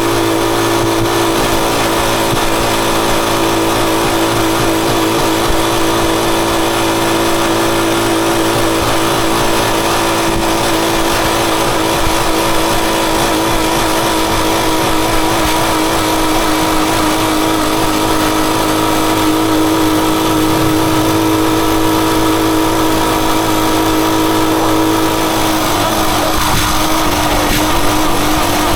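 Rusi Chariot 175 motorcycle engine running at a steady pace, its note holding nearly constant and shifting slightly near the end.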